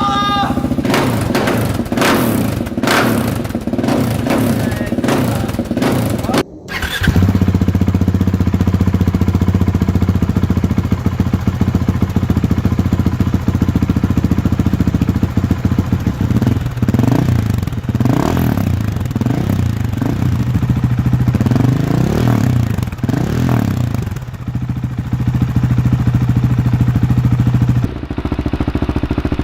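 Husqvarna 701 Supermoto's single-cylinder engine running through an aftermarket exhaust. It pulses unevenly for the first six seconds, then after a short break it idles steadily, with a series of throttle blips that rise and fall between about 16 and 24 seconds in.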